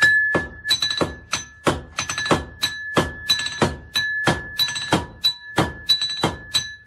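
Blacksmith's hammer striking iron on an anvil in a quick, steady rhythm of about three blows a second. Each blow leaves a bright metallic ring that carries on between strikes.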